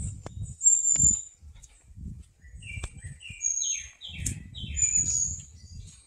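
Wild birds singing in the forest: high, thin whistled notes, and from about two and a half seconds in a run of short falling chirps. Underneath, irregular low rumbling thuds come from walking with the handheld camera.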